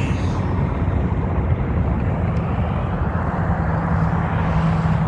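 Steady low rumble of road traffic, with a low engine hum joining about three seconds in.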